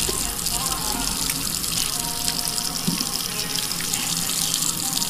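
A steady, hissy rush like running water, with faint music underneath.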